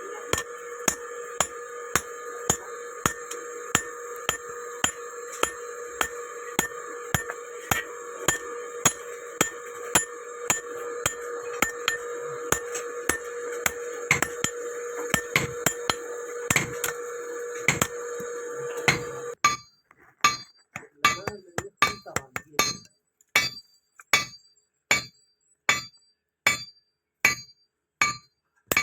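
Blacksmith's hammer striking iron on an anvil with sharp metallic rings, about two blows a second, forging a hoe blade. A steady hum runs under the blows and cuts off suddenly about two-thirds of the way through; after that the blows are slightly slower and stand alone.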